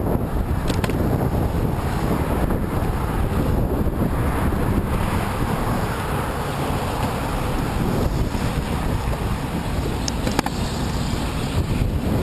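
Wind buffeting a moving camera's microphone on a bicycle ride into a headwind, a steady low rumble with a couple of brief clicks about ten seconds in.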